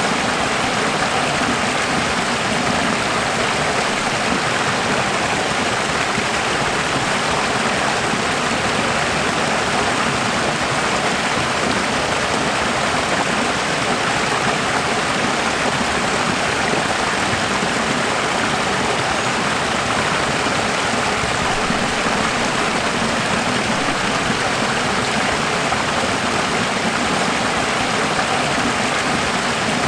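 Running water flowing with a steady, unchanging rush.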